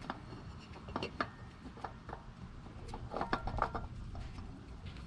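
Hand tools working on car parts: scattered small metallic clicks and clinks, with a short cluster a little past three seconds in.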